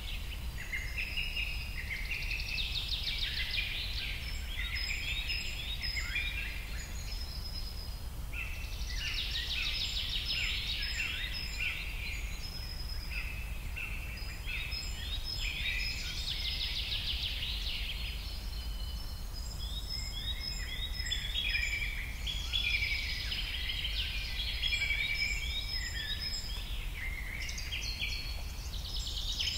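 Birdsong ambience: many small birds chirping and trilling in overlapping bursts that rise and fall in waves every few seconds, over a steady low hum.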